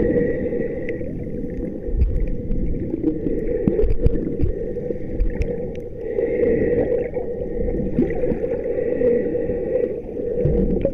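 Water gurgling and sloshing close to the microphone, muffled, with scattered small knocks and clicks.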